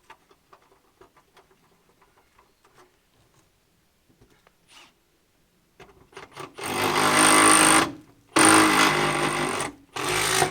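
Cordless reciprocating saw (Sawzall) cutting in three loud bursts, the first starting about six and a half seconds in, with short pauses between them. Faint rustling and clicks come before the first burst.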